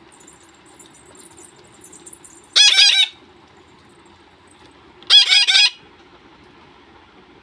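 Pet parakeet screeching: two short, harsh calls, each a quick string of notes, about three and five seconds in.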